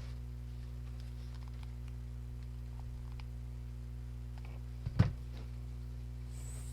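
Faint handling ticks at a craft table over a steady low hum, with one sharp knock about five seconds in.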